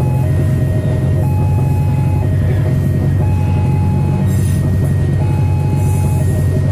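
Passenger train coaches rolling past a level crossing with a steady low rumble. Over it the crossing's electronic warning alarm alternates between two tones, switching about once a second.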